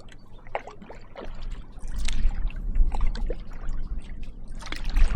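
Canoe paddle strokes splashing and dripping in choppy lake water, with wind buffeting the microphone, growing heavier about a second and a half in.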